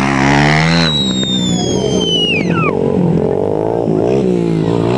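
Dirt-bike engines revving up and down. From about a second in, a high whistle-like tone glides steeply down in pitch over a second and a half.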